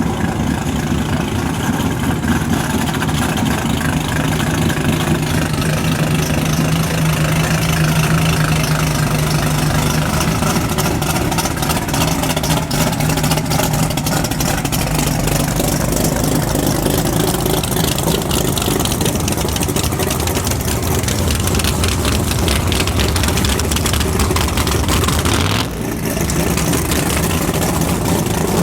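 Drag race car engine idling loudly with a steady low rumble, dipping briefly near the end.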